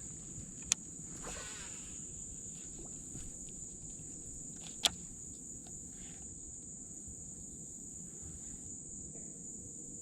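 Cicadas droning in the trees, a steady high-pitched whine. Two sharp clicks stand out, one about a second in and one near the middle.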